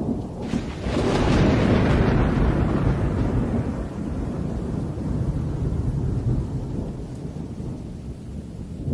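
Deep rumbling noise that swells about a second in and slowly eases off toward the end.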